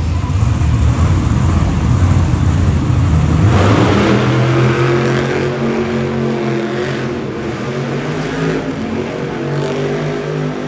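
Monster truck engine revving hard, loud and low for the first few seconds, then settling into a steady high-revving note about three and a half seconds in.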